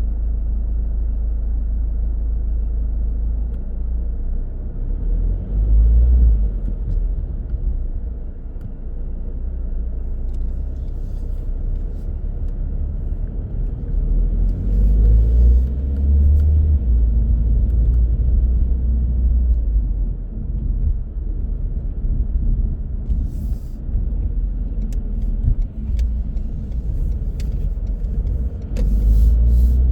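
A car driving on the road: a steady low rumble of engine and tyres that swells briefly a few times. A few light clicks come near the end.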